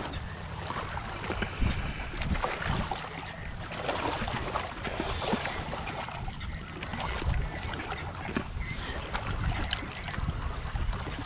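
Wind buffeting the microphone: a steady rumbling hiss that swells and eases in gusts, with scattered faint ticks.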